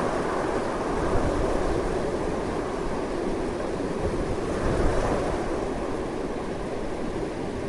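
Strong, continuous wind blowing in gusts, a steady rushing noise that swells about five seconds in and eases slightly near the end.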